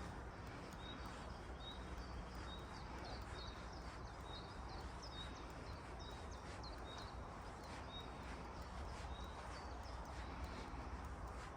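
A songbird repeating a short, high chirp about twice a second over a steady hiss of forest ambience.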